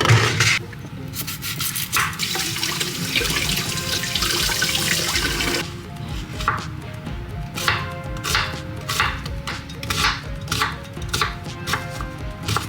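Water running into a sink for a few seconds, followed by a string of short clinks and knocks, over background music.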